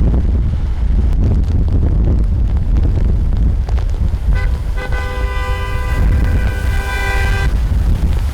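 A vehicle horn sounds for about three seconds, starting about halfway in, with a brief break just after it begins, over a heavy rumble of wind on the microphone and road traffic.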